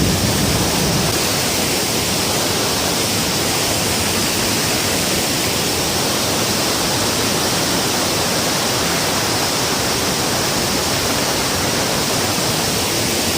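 Steady, loud rush of water falling over the dam's waterfall, an even roar that holds without change.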